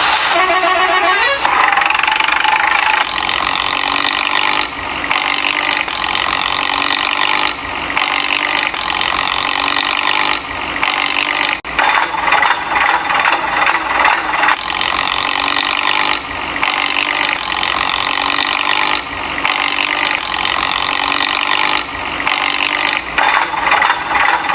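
Toy construction vehicle's small motor and gears running with rattling and scraping, the sound shifting every few seconds.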